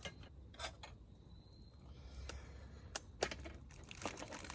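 A handful of faint, sharp clicks and light taps at uneven intervals, over a low steady background hum.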